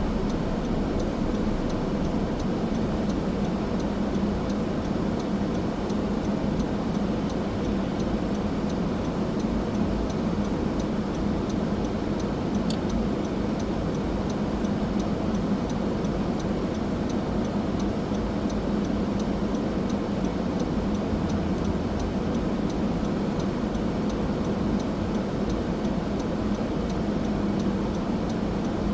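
Steady road and engine noise of a car driving on a winter road, holding an even level throughout.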